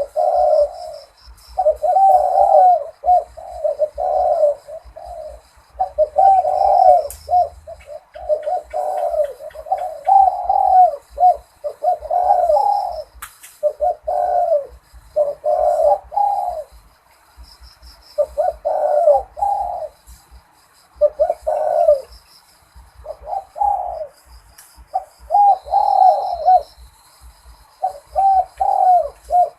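Zebra dove cooing: a long run of short, rolling coo phrases, one after another about every second or two, with brief pauses between them. It is the bird's 'Malay-rhythm' song style.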